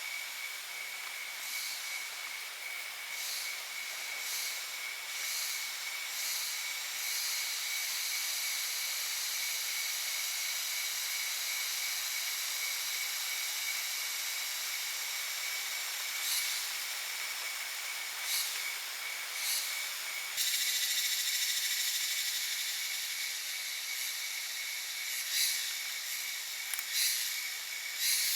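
Insects in the forest keeping up a steady high-pitched chorus, with a constant thin whine and pulsing trills. A louder buzzing layer joins about two-thirds of the way in.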